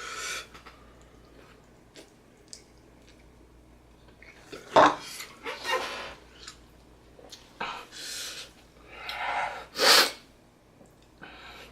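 A person eating very hot spicy noodles, making several short, noisy breaths, sniffs and mouth noises, with a loud sharp burst about five seconds in and another about ten seconds in. The sounds are a reaction to the burning spice.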